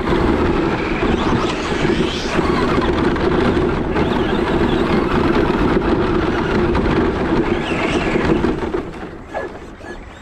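Radio-controlled short-course truck running hard close by: a steady electric-drivetrain hum under a rough rushing noise, fading away near the end.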